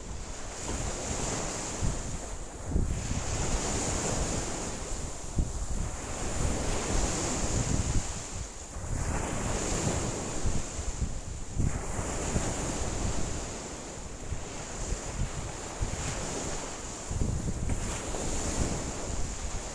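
Wind-driven lake waves washing in, surging and easing every few seconds, with strong gusty wind buffeting the microphone.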